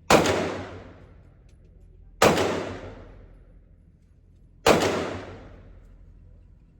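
Three single 9mm pistol shots from a Glock 19, spaced a little over two seconds apart, each sharp crack trailing off in a long echo.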